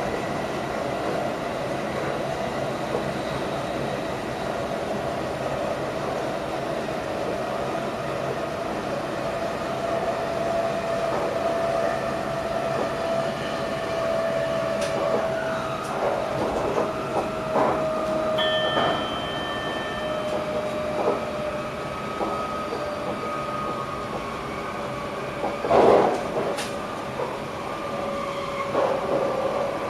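Electric passenger train running along the track, heard inside the driver's cab: a steady rumble of wheels and running gear with a faint whine that slowly drifts in pitch. About two-thirds of the way in a short electronic tone sounds, and a loud knock comes near the end.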